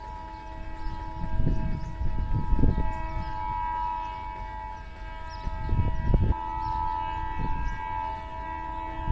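Locomotive horn held in one long, steady blast of several tones sounding together, with the pitch shifting slightly about six seconds in. Low rumbling surges run underneath and are loudest about three and six seconds in.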